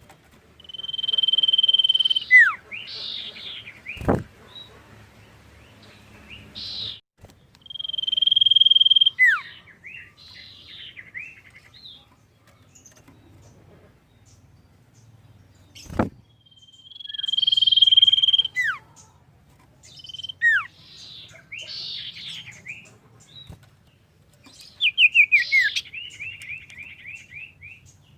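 Common iora (cipoh) singing in repeated phrases: a long, steady high whistle followed by a sharp downward-sliding note and a few short chirps, about every eight seconds, closing with a quick run of falling notes near the end. Two sharp clicks sound between phrases.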